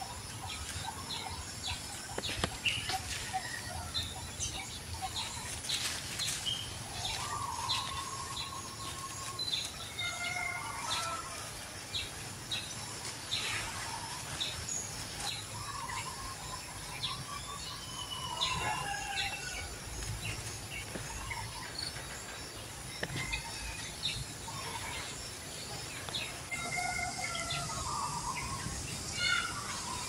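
Birds chirping and calling throughout, with several longer wavering calls among the short chirps. A steady high hiss comes in near the end.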